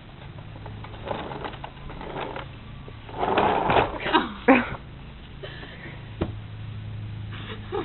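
A baby's hands slapping and rubbing on a car's dirty body, scattered knocks and scrapes, with a loud high squealing cry between about three and five seconds in and a sharp knock after six seconds.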